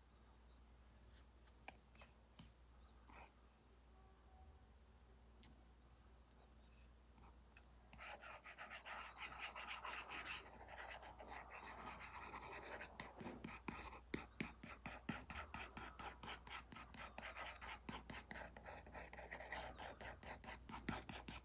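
Apple Pencil Pro tip on an iPad's paper-like matte screen protector: a few faint taps, then from about eight seconds in continuous quick back-and-forth scratching strokes, as when shading or hatching with a brush.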